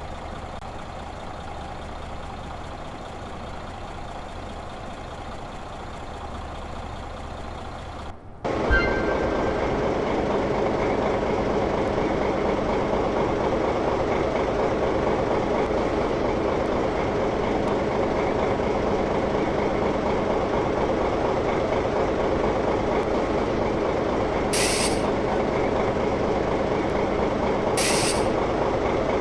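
A motor running with a steady hum, much louder after a sudden break about eight seconds in, with three short hisses of air near the end.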